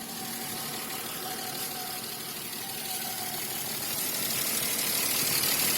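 BMW M50 2.0-litre straight-six idling on petrol, with a faint ticking of the hydraulic lifters and a knock from under the valve cover at the VANOS end. The owner suspects the upper timing chain's hydraulic tensioner, since the knock appeared after the chains, tensioners, guides and VANOS seal kit were replaced. It grows steadily louder toward the end.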